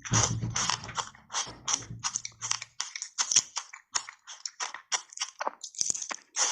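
Button-shaped ice coated in matcha powder being chewed close to the microphone: a rapid run of sharp, crisp crunches, several a second. A low hum sits under the first few seconds.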